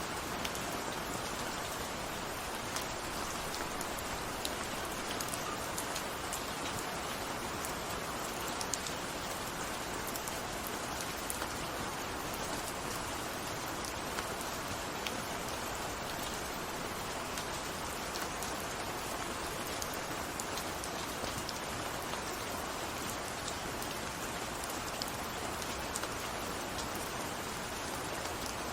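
Steady rainfall, with scattered individual raindrops ticking on a surface over an even hiss of rain.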